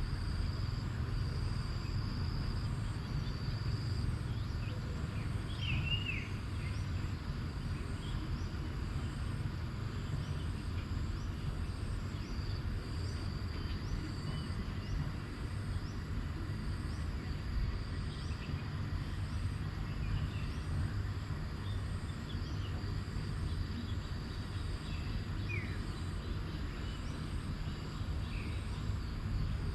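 Outdoor nature ambience: insects trilling steadily, a few short bird chirps, and a low rumble underneath.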